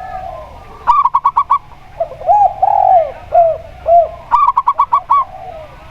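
Zebra dove and spotted dove cooing: two quick runs of about six short, clipped notes, with a string of lower, arching coos between them.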